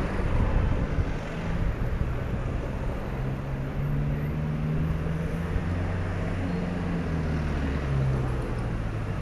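Motorcycle engine running under way, its pitch shifting a little as it rides, over a steady rush of wind and road noise.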